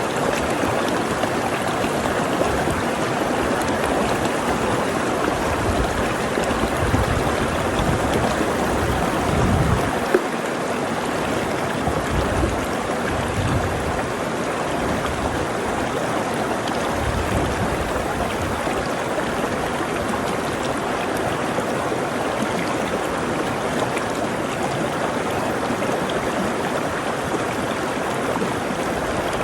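Rushing water of a flowing stream: a steady, even rush, with low rumbling swells coming and going in the first half.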